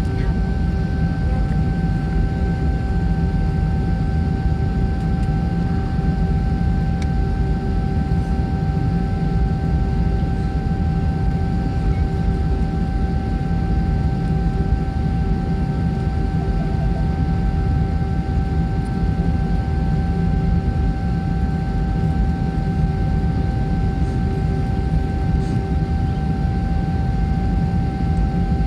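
Jet airliner heard from inside the cabin: a steady low rumble with an even engine whine over it, holding the same pitch throughout.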